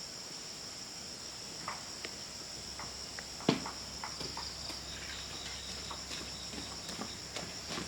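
Steady high-pitched chirring of insects such as crickets, with scattered light knocks and taps, one sharper knock about three and a half seconds in.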